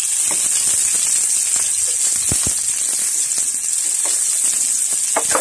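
Onion and ginger sizzling in hot oil in an aluminium pan, a steady high hiss with scattered small clicks and taps as a wooden spoon stirs them.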